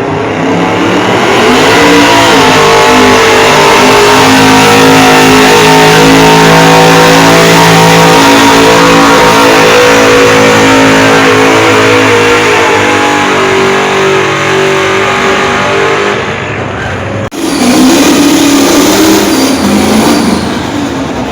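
Two-wheel-drive pulling truck's engine at full throttle under the load of the pulling sled, very loud and steady for about fourteen seconds before easing off. After a sudden break, an engine revs up again near the end.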